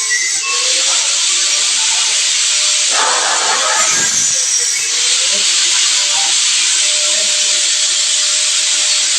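Power sprayer's high-pressure jet hissing steadily, with a faint wavering hum beneath and a rougher, fuller patch about three seconds in.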